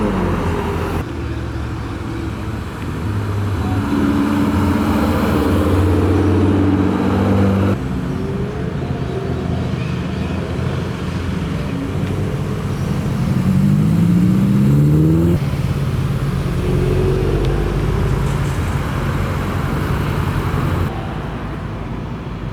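Car engines driving past one after another, several cars in turn, with the sound changing abruptly every few seconds as one car gives way to the next. About two-thirds of the way through, one engine revs up with a rising pitch.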